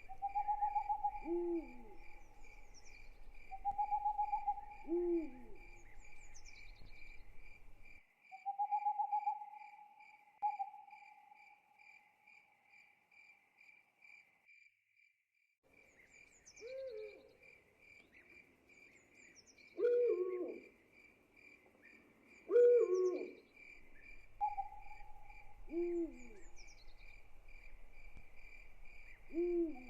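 Night ambience: an owl hooting again and again, with a longer, higher held call now and then, over a steady pulsing cricket trill. The trill and calls drop out for about a second halfway through, then resume.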